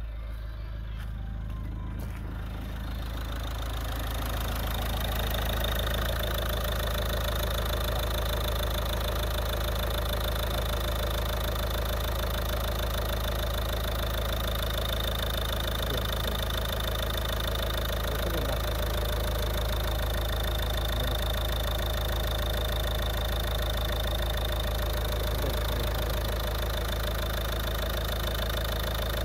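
Ford Mondeo Mk4's 2.0 TDCi (QXBA) four-cylinder turbodiesel idling steadily, growing louder over the first few seconds and then holding an even pitch.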